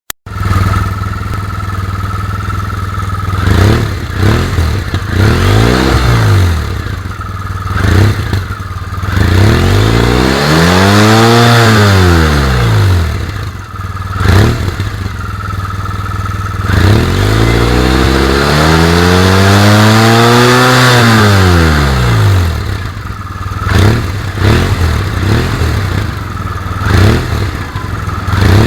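Scooter engine breathing through an aftermarket performance exhaust, idling and being revved repeatedly. There are several short blips and two long revs that climb high and fall back to idle.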